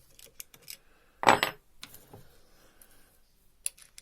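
Small metal tool or part clanking down on a hard surface, a loud clank with brief ringing a little over a second in, then a few faint clicks and a short sharp click near the end.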